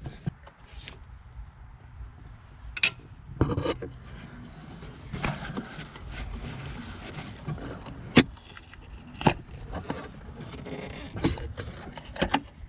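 Hand tools working in an engine bay: a ratchet socket on a swivel and extensions removing an ignition coil's 7 mm bolt, with scattered metallic clicks, knocks and scrapes several times.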